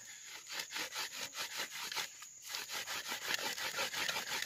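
Bamboo fire saw: one piece of bamboo rubbed rapidly back and forth against a split bamboo, a fast rhythmic wooden scraping with a short break a little past halfway. It is a friction fire attempt, heating the bamboo to light the tinder.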